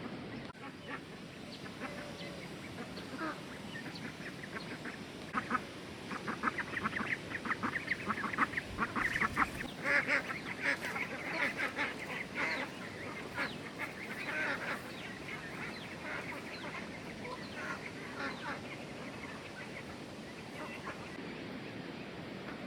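A flock of farm waterfowl calling: many short honks and quacks in quick succession, busiest in the middle and thinning out toward the end.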